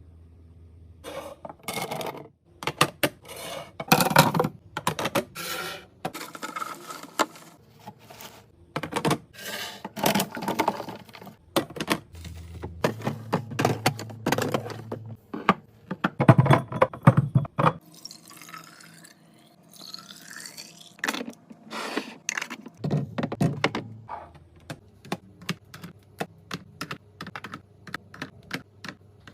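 Many small clicks, taps and knocks of plastic and glass food containers and packages being handled and set down while restocking a fridge, with a brief stretch of rustling packaging in the middle.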